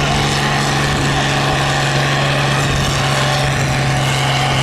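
Cockshutt stock pulling tractor's engine running loud and steady, its pitch holding constant.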